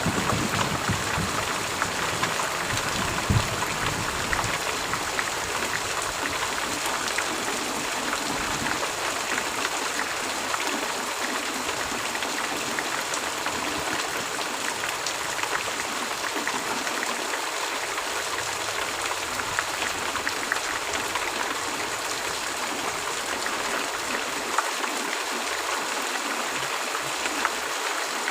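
Heavy rain pouring steadily, an even hiss with scattered sharp drops. A low thunder rumble dies away in the first few seconds.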